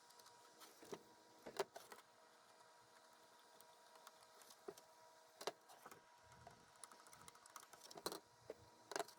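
Near silence: a faint steady hum with scattered light clicks and taps, as of small plastic parts being handled.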